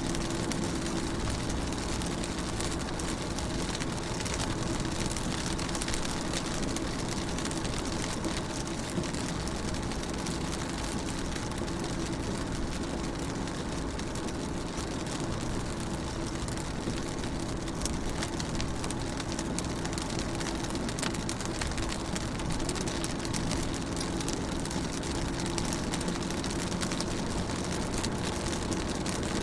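Steady rain on a car's windows and bodywork heard from inside the car: dense, fine drop patter under a steady low hum.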